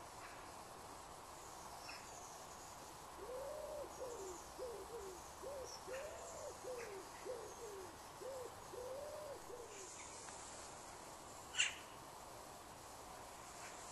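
A bird giving a run of about ten low, hooting notes, a few longer arched ones among shorter ones, over faint outdoor background noise. A single sharp click near the end.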